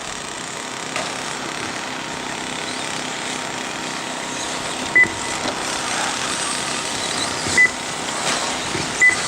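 Radio-controlled race trucks running around the track, a steady whirring haze. Three short, high beeps sound at uneven intervals, the lap-timing system registering trucks crossing the timing line.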